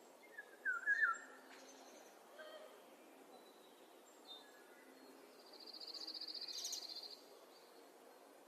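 Wild birdsong: a few short, quick whistled notes about a second in, then a fast, high, even trill lasting about two seconds past the middle, over a faint outdoor hiss.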